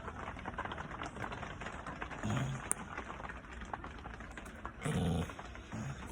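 Dog snoring: three short low snores, about two seconds in, around five seconds in, and just before the end. Rain patters steadily underneath with many fine ticks.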